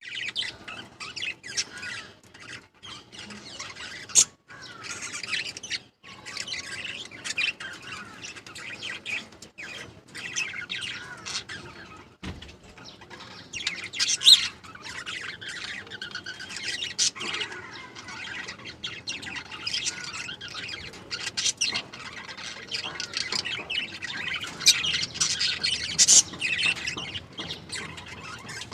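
Small pet parrots chirping and chattering without a break, with a few sharper, louder calls standing out.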